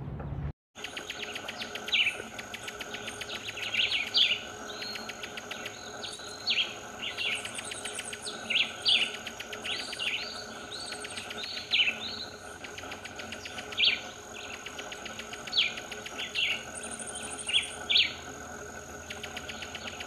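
Cuban tody giving short, sharp chirping calls about once a second, some in quick pairs, over a steady, fast-pulsing insect trill. A brief silence near the start.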